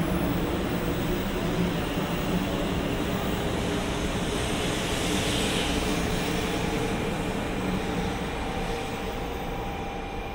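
JR West 500 Series Shinkansen train moving along the platform, a steady rumble of rolling wheels and motor hum from the passing cars. The rumble eases slightly near the end as the train draws away.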